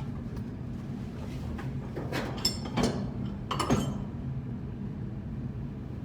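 Steady low machinery hum with a few sharp metallic clinks and clanks from tool work, clustered between about two and four seconds in.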